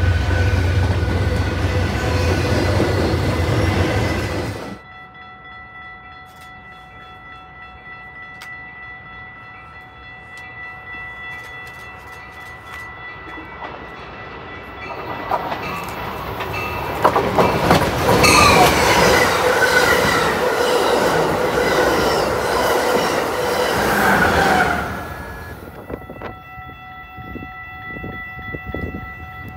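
Trains passing close by on the line. A loud passing train cuts off abruptly about five seconds in. After a quieter stretch, another train approaches, grows loud with squealing wheels, then cuts off abruptly near the end.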